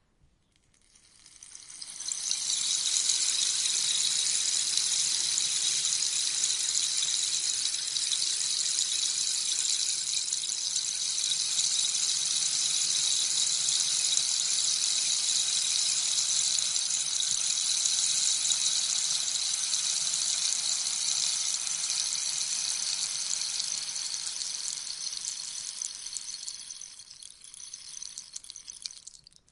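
Rainstick tipped over, its beads trickling down inside in a steady rain-like hiss. The hiss swells in over the first two seconds, runs evenly, then thins out and dies away near the end as the last beads fall through.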